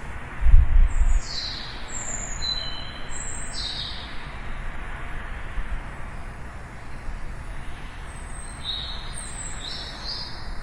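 Small birds chirping: two bouts of short, high whistled notes, some sliding downward, over a steady background hiss of ambient noise. A brief low rumble about half a second in is the loudest sound.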